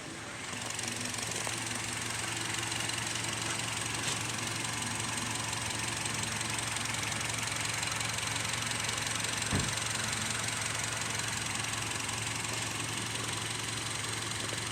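Honda HR-V engine running at a steady idle, growing louder and settling in about half a second in, with a brief click or two along the way.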